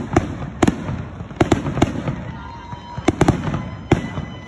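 Fireworks display: about eight sharp bangs of aerial shells bursting at uneven intervals, two of them in quick pairs, with a low rumble between them.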